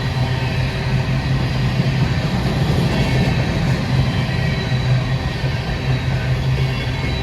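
Freight train with diesel locomotives, its engines running with a steady hum.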